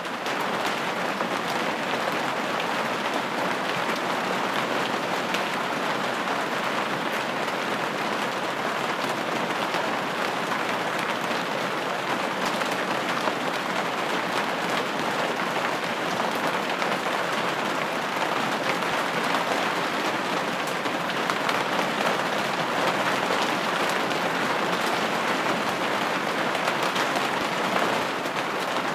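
Steady rain falling on a window pane, an even patter of many small drops with no lulls.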